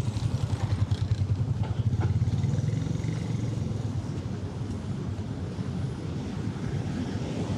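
City street traffic: a motor vehicle's low engine rumble swells over the first few seconds, then eases into a steady traffic hum.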